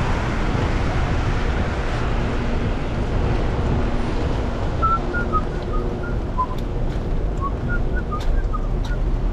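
Steady city street noise of traffic on wet roads. From about halfway through, a string of short high chirps sounds over it.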